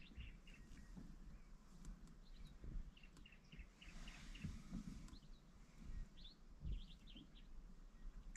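Faint birdsong: many short, quick chirps, several in a row at times, over a low rumble.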